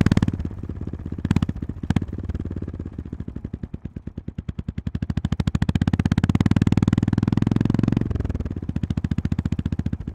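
Honda GB350S's air-cooled single-cylinder engine running at low speed with an even train of exhaust pulses, swelling as the throttle is opened, then dropping off sharply about eight seconds in and fading near the end. Two sharp clicks sound about a second in.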